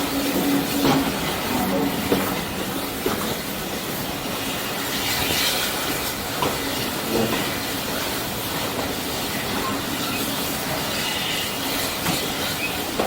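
Steam-hauled train running along the line: a steady rumble and hiss of the moving train, with scattered clicks of the wheels over the rail joints.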